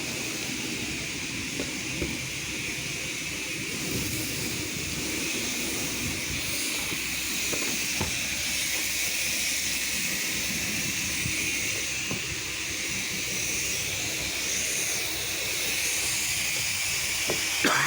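Hand pump-up sprayer spraying house-wash cleaning solution: a steady hiss from the nozzle.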